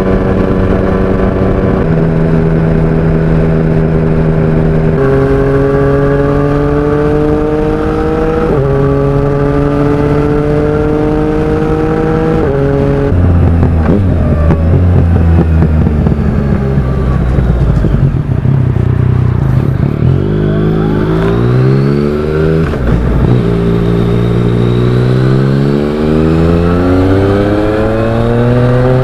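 Yamaha Tracer 900's inline-three engine through a Mivv Oval titanium exhaust, accelerating through the gears: the pitch climbs and drops sharply at each upshift, four times in quick succession. It then falls away as the bike slows, rises and drops a few times, and climbs steadily again near the end.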